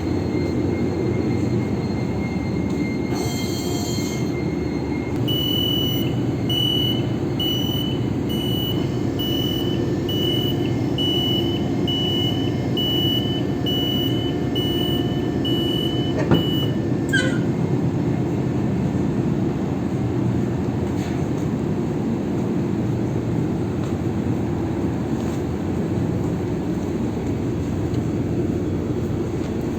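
Tanker engine-room machinery running with a steady, heavy hum. From about five seconds in, a high beeping alarm sounds about one and a half times a second for roughly ten seconds, then stops.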